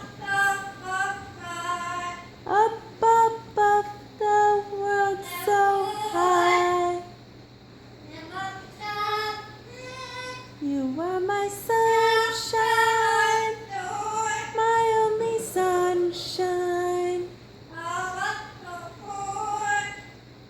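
Blue-fronted Amazon parrot singing a tune in a human-like voice: a run of held notes with short breaks, a couple of upward swoops into notes, and a quieter stretch in the middle.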